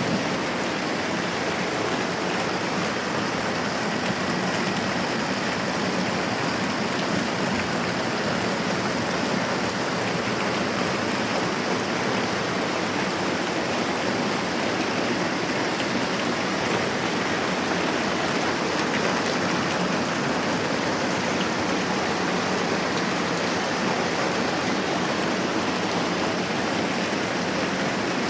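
Moderate rain falling steadily, a dense even hiss with no let-up.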